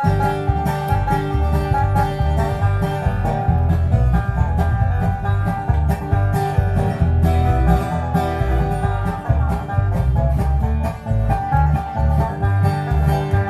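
Bluegrass music led by a picked banjo, with guitar and a pulsing bass line.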